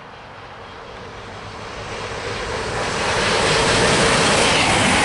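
CrossCountry Voyager diesel multiple unit running through the station at speed without stopping. Its noise grows louder over the first three seconds, then holds as a steady loud rush as the train passes the platform.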